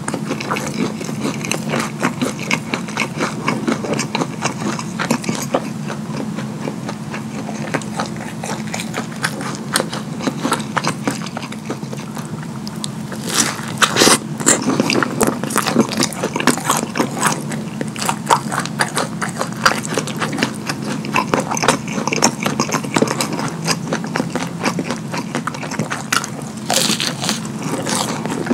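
Close-miked wet chewing and lip-smacking as a sauce-dipped breaded chicken nugget is eaten, with a louder cluster of biting and smacking about halfway through.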